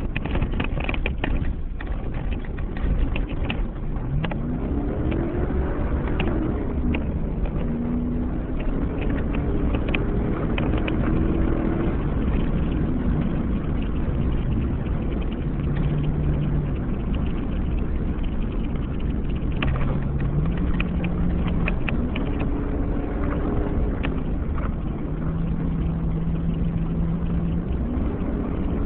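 2007 Chevy Avalanche's V8 engine running under load on a dirt and gravel road, its pitch rising and stepping up and down with speed, over a steady low rumble of tyres and road noise. Scattered short knocks and clicks of gravel and bumps come through, thickest near the start and around two-thirds of the way in.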